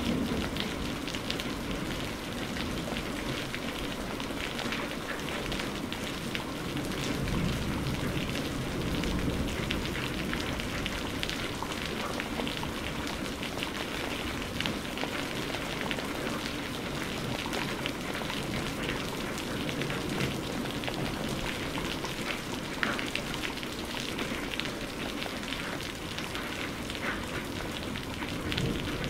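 Steady rain falling, with many separate drop hits ticking through the hiss.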